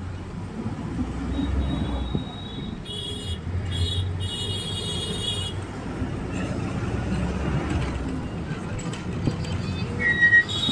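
Road traffic with a heavy vehicle's low engine rumble. A high-pitched tone sounds above it from about a second in to about five seconds in, broken into a few short pulses near the end.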